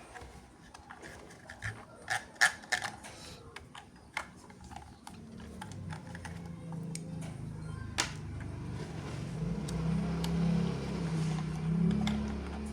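Sharp clicks and taps, the loudest about two and a half seconds in, typical of toys and packaging being handled. From about halfway a low wavering hum builds and grows louder.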